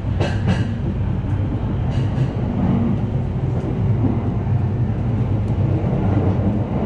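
Electric commuter train running along the line, heard from inside the carriage: a steady low rumble of wheels on rail, with a few sharp clicks in the first second.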